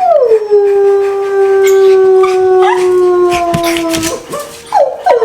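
Owner and Old English Sheepdogs howling together: one long howl that drops in pitch and then holds steady, with a second, higher howl joining partway through. About four seconds in it breaks into short yips and barks.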